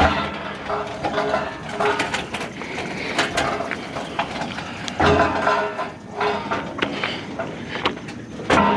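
Irregular clanks, knocks and scrapes of scrap items being handled and shifted in a pickup truck bed, with a few short squeaks.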